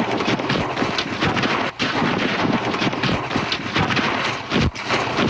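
Rally car rolling over: an irregular jumble of knocks and crunches as the body strikes the ground, over a steady rush of noise.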